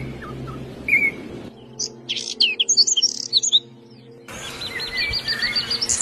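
Songbirds chirping, in separate snippets: a short chirp about a second in, then a burst of rapid high twittering, then a fast trill of repeated notes near the end.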